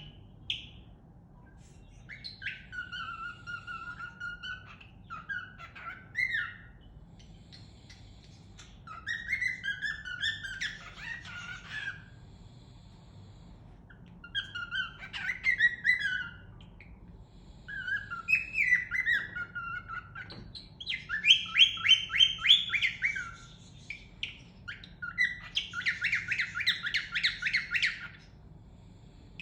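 Cockatiel singing in phrases of whistles and chirps with short pauses between, the later phrases breaking into fast runs of repeated notes.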